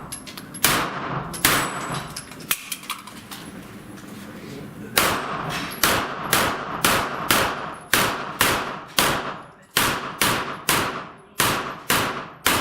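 Gunshots from a competitor shooting steel plates. There are two single shots near the start and a few faint ticks, then from about five seconds in a long, fast string of shots, two to three a second, until just before the end.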